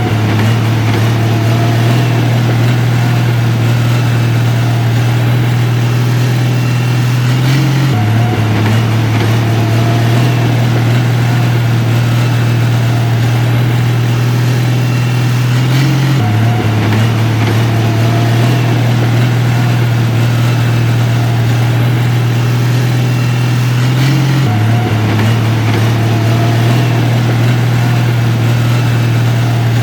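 Heavy construction machine's diesel engine running steadily with a strong low drone. The same stretch of sound repeats about every eight seconds, as in a looped recording.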